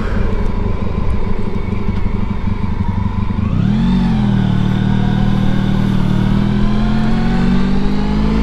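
Motorcycle engine running under way, with wind and road noise. About three and a half seconds in the engine note rises briefly and drops back, then holds and climbs slowly as the bike picks up speed.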